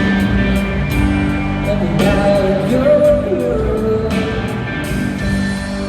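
Live band music with a steady drum beat, held notes and a voice singing.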